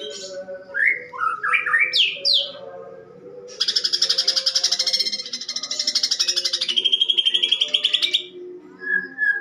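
Cucak ijo (green leafbird) singing: a run of quick rising whistled notes, then about four seconds of rapid, harsh chattering that ends in a fast buzzy trill. The chatter is the bird's rough-voiced mimicry of fighting sparrows.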